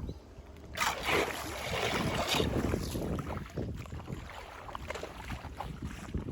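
Flood water rushing and splashing at a clogged drain grate. It gets louder about a second in and stays loud for a second or two.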